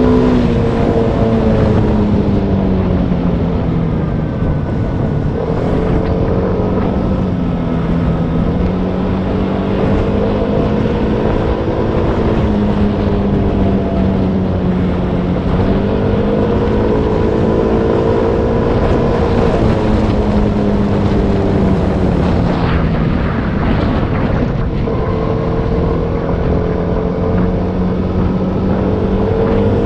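Motorbike engine running on the move, its note rising and falling slowly with the throttle, over a steady rush of wind on the microphone.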